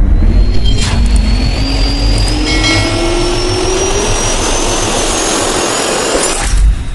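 Boeing 777-300ER's GE90 jet engines spooling up on the takeoff roll: a rising whine climbing steadily over a heavy rumble, cutting off suddenly near the end.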